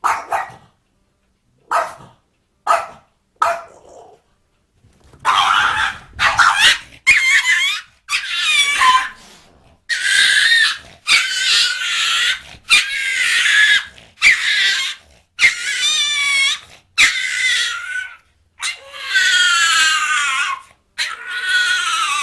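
A dog barking and yelping: a few short sharp barks, then from about five seconds in a long run of high-pitched calls, about one a second, many sliding down in pitch.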